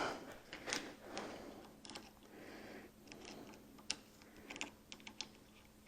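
Faint, scattered light clicks and taps of a hand tool and small metal parts as screws on a fabricated steel log-splitter valve body are tightened, over a faint steady hum.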